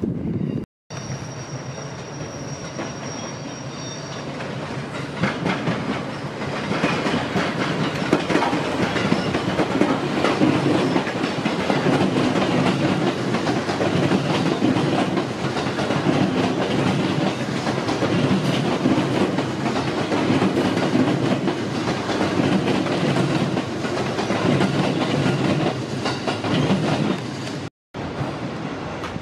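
Electric passenger train passing on the adjacent tracks, its wheels running over the rails. The sound builds over the first several seconds, stays loud for about twenty seconds, then eases near the end.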